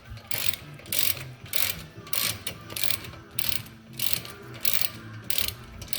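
Hand ratchet wrench clicking in short bursts, about two a second, as it runs in and tightens a brake caliper's guide pin bolts.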